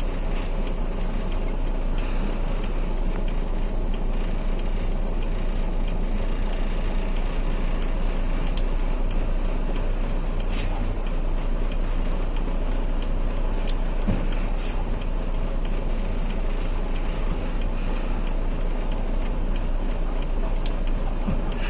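Loaded truck on the road: steady engine and road rumble, with light ticks at an even pace.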